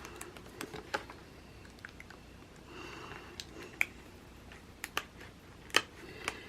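Light clicks and taps of hands handling stickers and paper on a planner, with a few sharper clicks in the second half.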